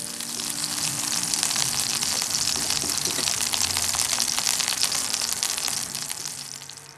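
Chicken breast pieces shallow-frying in hot oil in a wok: a steady sizzle thick with small crackling pops, which fades away near the end.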